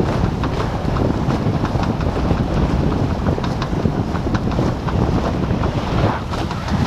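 Wind buffeting the microphone on a racing sailing catamaran under way, with water rushing past the hulls and many short splashes or slaps.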